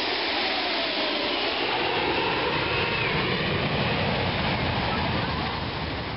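Jet aircraft engine noise as a plane flies past, a loud steady rush with a pitch that slides downward, fading away near the end.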